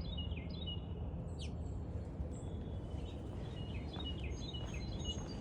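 Small songbirds chirping, many short high notes that drop in pitch, repeated over and over, over a steady low background rumble.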